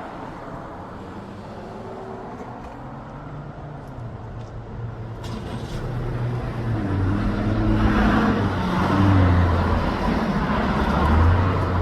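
A motor vehicle's engine, a low hum that grows louder from about four seconds in and stays loud to the end, its pitch shifting slightly.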